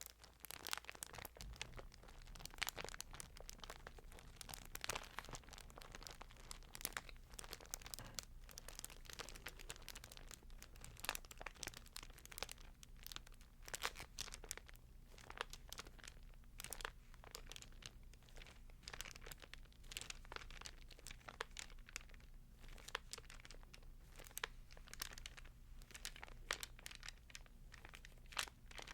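Thin Bible pages rustling and crinkling under the fingers close to the microphone: an irregular stream of soft, crisp paper crackles, several a second.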